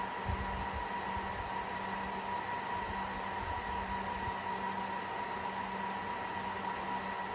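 HPE ProLiant DL360 Gen10 server's cooling fans running at high speed during boot: a steady rush of air with a constant high whine and a lower hum.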